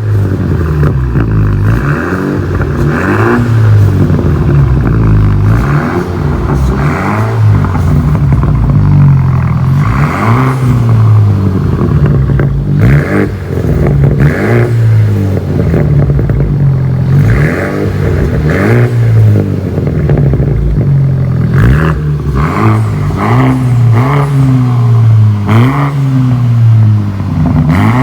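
A 2013 BMW X1's turbocharged engine revved over and over through a Street Demon cat-back performance exhaust, the exhaust note rising and falling in quick blips roughly once a second.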